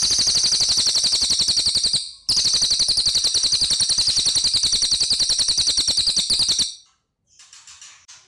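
A cililin bird singing a fast, even, high-pitched trill of about ten notes a second. It breaks off briefly about two seconds in, resumes, then stops and is followed by a few faint short chirps near the end.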